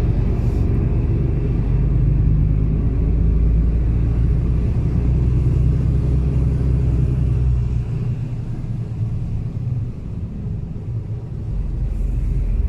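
Mercedes-Benz Actros truck's diesel engine running with a steady low rumble as the truck drives along a mountain road, easing for a few seconds past the middle.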